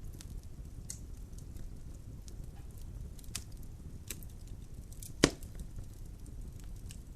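Logs burning in a fireplace: a steady low rumble of flame with scattered sharp crackles, and one loud pop about five seconds in.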